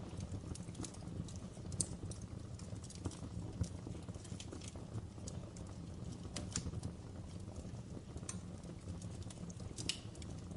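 Fire in a fireplace crackling: irregular sharp pops and snaps, a few a second, over a steady low rumble.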